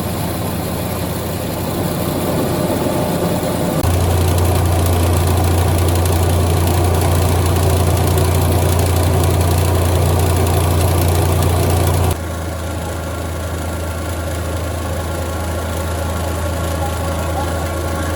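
A motor-driven machine running with a steady low hum and a mechanical rattle, its level jumping up about four seconds in and dropping back about twelve seconds in.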